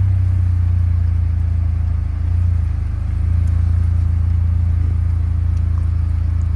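Car engine running with a steady low hum, heard from inside the car as it edges along the road.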